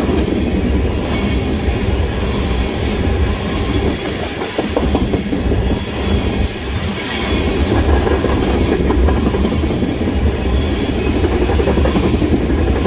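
Crude oil train tank cars rolling past at speed: a steady, loud low rumble of steel wheels on the rails.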